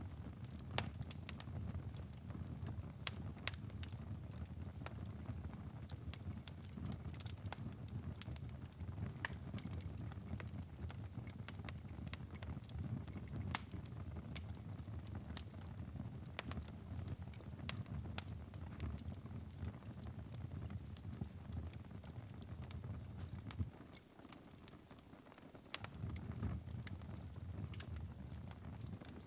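Wood fire crackling in a fireplace: irregular sharp pops and ticks over a steady low rumble of burning. Near the end the low rumble briefly drops away for about two seconds while the crackles go on.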